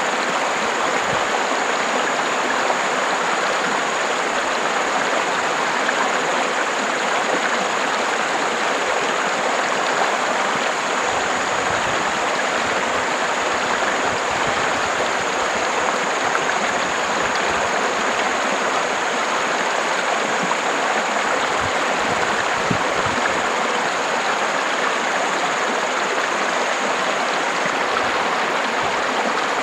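River water flowing, a steady, even rushing with no change in strength.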